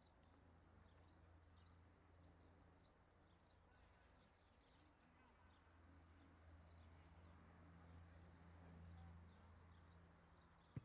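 Near silence: faint open-air ambience with many small bird chirps scattered throughout over a low steady hum. One sharp tap sounds near the end.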